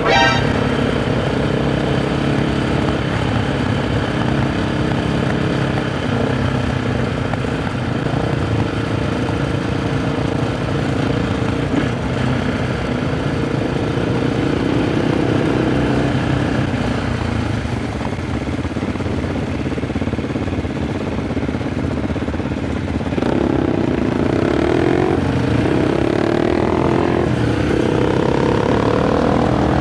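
Husqvarna SMR 510 supermoto's single-cylinder engine running at road speed, its pitch stepping up and down with throttle and gear changes and climbing as it accelerates about 23 seconds in.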